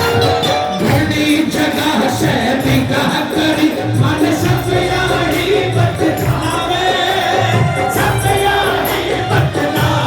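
Hindi devotional bhajan music played loud and live: voices and a melody over a steady hand-percussion beat.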